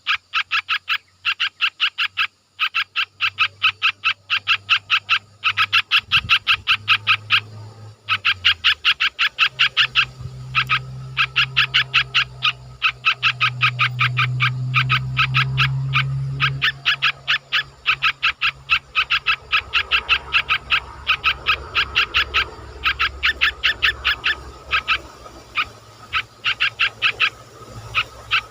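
An animal calling with a fast, even train of pitched notes, several a second, in long runs broken by short pauses. A low hum swells underneath it in the middle.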